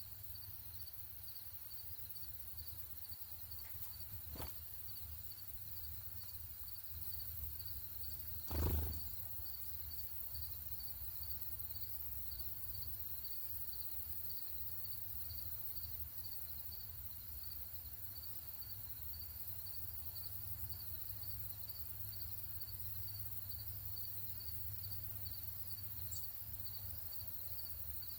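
Insects chirping steadily outdoors, an even high-pitched pulse about twice a second, over a low rumble. A soft knock comes about four seconds in and a louder thump near nine seconds.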